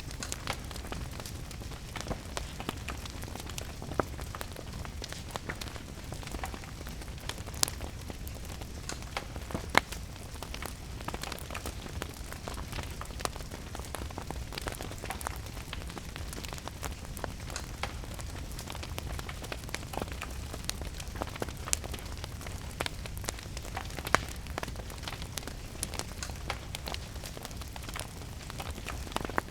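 Wood fire crackling, with scattered clicks and a few louder pops, over a steady hiss of rain and a low rumble.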